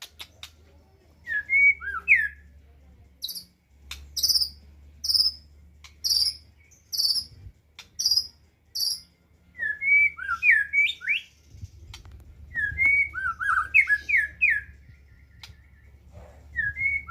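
Black-tailed murai batu (white-rumped shama) singing: short phrases of rich, gliding whistled notes, with a run of about six higher, clipped notes repeated about once a second in the middle.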